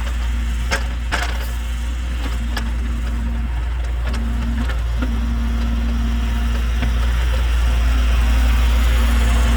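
Kubota KX033 mini excavator's 25 hp diesel engine running steadily, with a couple of light knocks about a second in, and growing slightly louder near the end.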